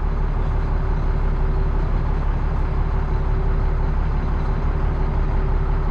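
Heavy roll-off truck's diesel engine idling steadily, with a faint steady whine over the low engine rumble.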